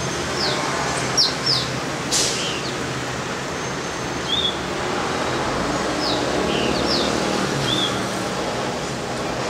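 Small birds chirping: scattered short, high calls, some quick downward strokes and some short arched notes, over a steady background hiss.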